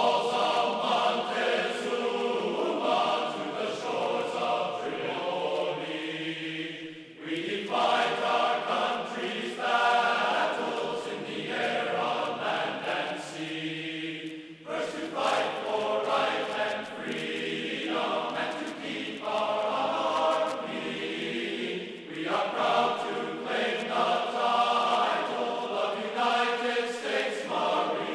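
Background music of voices singing together, like a choir or chant, in held phrases broken by short pauses.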